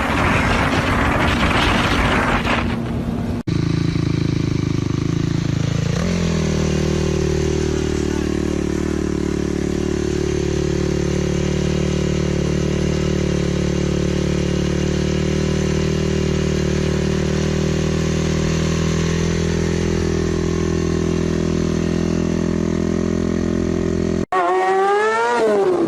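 Motorcycle riding sounds: first wind noise over the engine while riding, then a motorcycle engine that drops in pitch and holds a steady note, then an engine revving up and down near the end.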